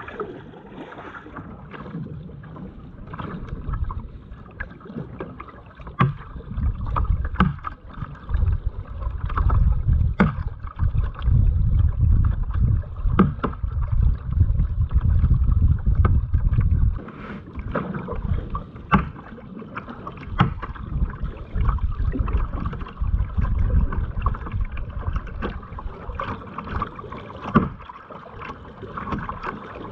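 Kayak being paddled on a lake: repeated short splashes and knocks of the paddle over a steady rumble of wind on the microphone, which is heaviest through the middle stretch.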